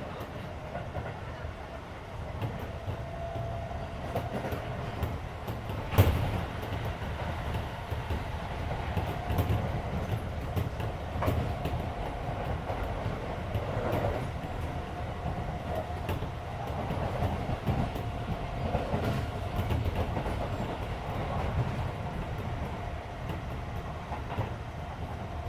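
Interior running noise of a Keisei 3400 series electric train car at speed: steady low wheel-and-rail rumble with the air conditioning running, an on-and-off mid-pitched whine, and one sharp knock about six seconds in.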